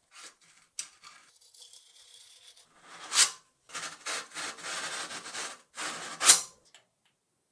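Hand rubbing and scraping on a surface in short strokes, broken by a few sharp clicks, the loudest near the end.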